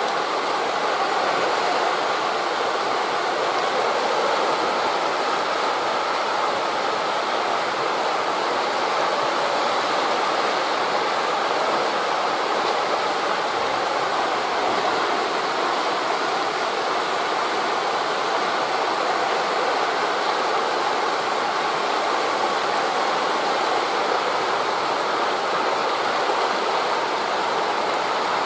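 Steady, even rushing of wind through tree leaves mixed with breaking waves, with no distinct events.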